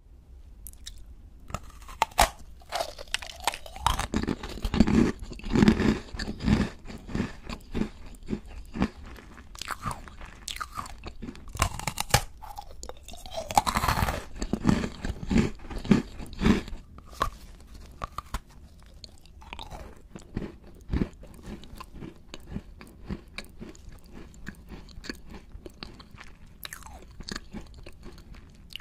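A person biting and chewing crunchy sweets: sharp crackling bites followed by runs of crunchy chewing. It is loudest in two spells in the first half and settles into softer chewing later on.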